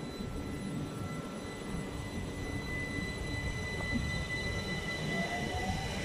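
Southern multiple-unit passenger train running slowly alongside the platform, a steady rumble with a thin high whine over it. A second whine rises in pitch about five seconds in.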